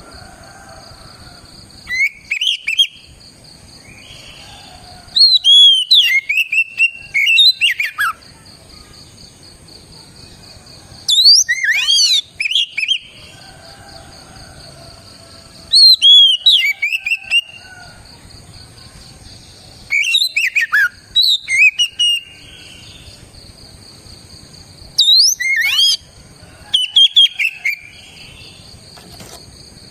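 Oriental magpie-robin (kacer) singing: loud bursts of varied whistled and sweeping notes every few seconds, with short pauses between phrases. A steady faint high-pitched tone runs underneath.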